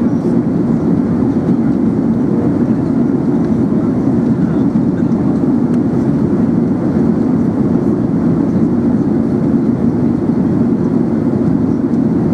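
Steady cabin noise of an Airbus A380 in flight: engine and airflow noise heard from inside the cabin, a constant deep rushing sound that does not change.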